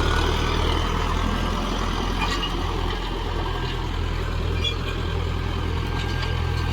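Mahindra Novo 605 DI tractor's four-cylinder diesel engine running steadily under load, the tractor moving in low-range fifth gear.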